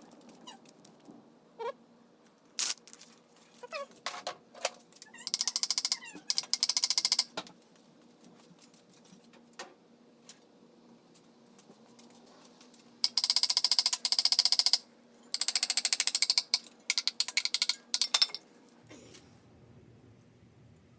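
Socket ratchet clicking rapidly in several bursts of a second or two, as engine fasteners are worked during teardown, with scattered single metallic clicks and short squeaks between.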